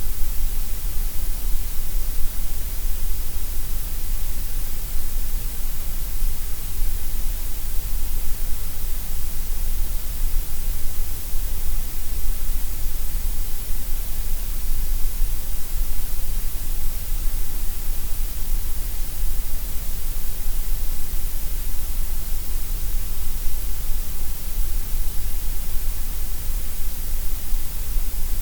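Gray noise: steady, unchanging synthetic noise shaped to sound about equally loud at every pitch, heard as an even hiss with a deep rumble underneath.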